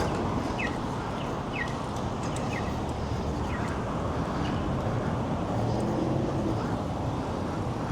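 Steady city traffic and wind noise heard from a moving bicycle, with a short high chirp repeating about once a second.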